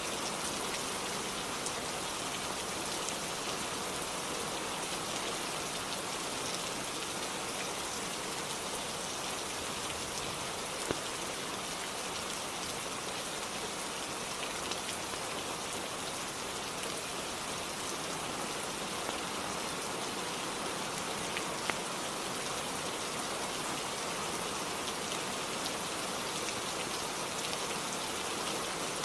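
Steady, even rainfall with a few sharp ticks scattered through it, the two clearest about eleven and twenty-two seconds in.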